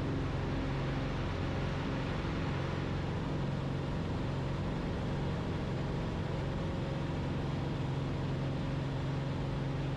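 Cessna 172RG's four-cylinder Lycoming O-360 engine and constant-speed propeller at full takeoff power, a steady drone during the climb-out just after lift-off.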